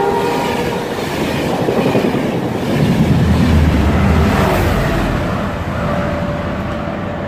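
Enterprise express passing at speed: the end of a horn blast cuts off about half a second in, then the rush and clatter of the coaches going by. Its trailing Class 201 diesel locomotive, with an EMD two-stroke engine, passes about three to four seconds in with a deep rumble, and the sound then fades.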